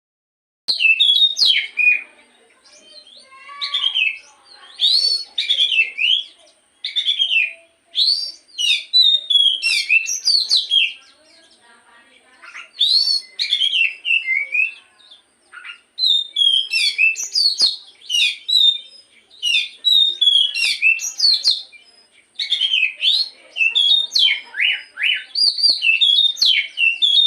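Oriental magpie-robin (kacer) singing a loud, varied song of rapid whistled phrases with many quick downward-slurred notes, broken by short pauses.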